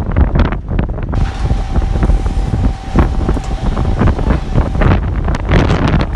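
Strong wind buffeting the microphone, with a low rumble and crackling, and a steady single tone from about one second in to about five seconds.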